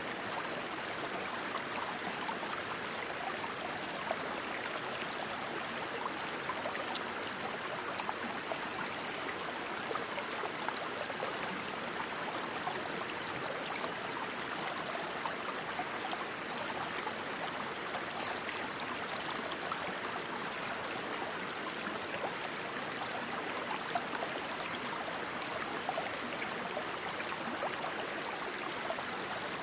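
A stream of rushing water, a steady even rush. Brief high-pitched chirps come through now and then, singly or in twos and threes.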